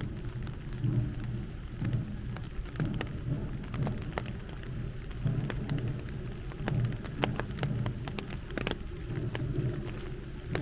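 Heavy rain falling, with many sharp, close drop ticks over a steady patter and a low rumble underneath that swells about once a second.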